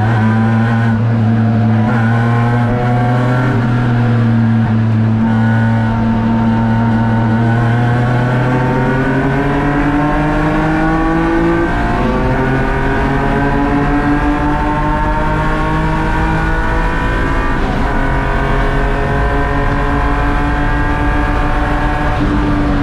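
BMW E36 M3 race car's straight-six engine under racing load, heard from inside the cabin. Its pitch holds for several seconds, then climbs, drops sharply on an upshift about twelve seconds in, climbs again through the next gear, and falls away near the end as the driver lifts off.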